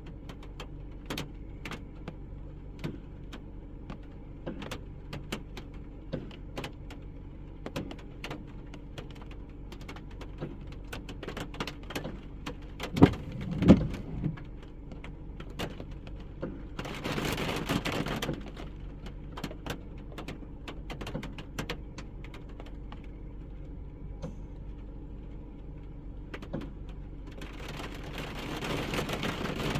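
A vehicle engine running steadily with a low hum, under scattered light ticks. There are two thumps a little before halfway, and a rushing hiss swells up about two-thirds of the way in and again near the end.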